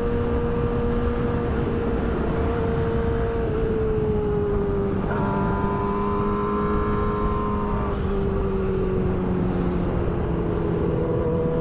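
Yamaha R6 sport bike's inline-four engine running at steady cruising revs, its pitch easing down slightly a couple of times, over a low rumble of wind. A second, higher engine tone joins for a few seconds in the middle.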